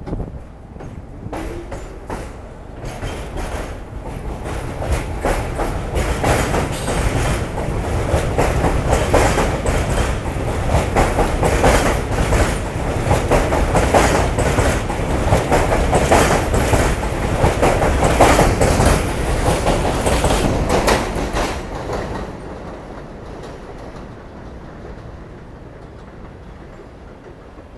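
New York City subway F train running through the station, its wheels clacking rhythmically over rail joints. The sound builds over several seconds, stays loud through the middle and fades after about 22 seconds as the train moves off.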